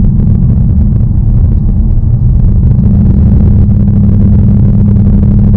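2019 Ford Mustang Bullitt's 5.0-litre V8 running at a steady pace while driving, a loud, even low rumble with no revving.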